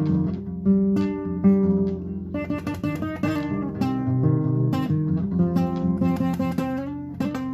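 Acoustic guitar played solo, with a mix of plucked notes and strummed chords in a flamenco-like style.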